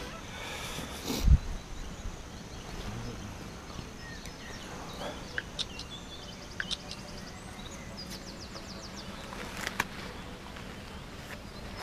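Birds chirping over a faint outdoor hush, with a quick trill about eight seconds in. A single dull thump comes about a second in.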